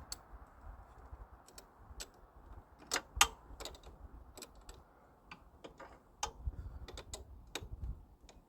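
Wrench clicking and tapping against a nut and the metal around it, in scattered irregular strikes, the loudest about three seconds in, as the nut on a battery disconnect switch is worked tight in a cramped spot.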